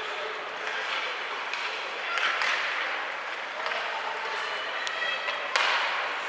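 Ice hockey game in an arena: a steady hum of spectators' voices and play on the ice, with a few sharp clacks near the end. The loudest is a sudden hit about five and a half seconds in.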